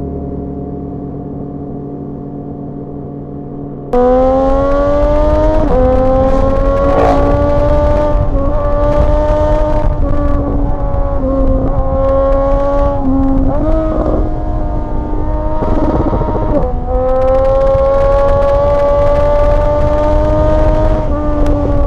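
Triumph motorcycle engine and exhaust under way, recorded raw close to the bike: a steady engine note that holds its pitch, with several brief dips and steps as the throttle is eased and gears change. About four seconds in, it suddenly jumps much louder.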